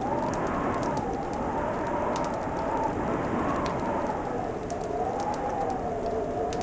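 Wood fire crackling with small sharp pops, over a steady rushing winter wind whose howling tone slowly rises and falls.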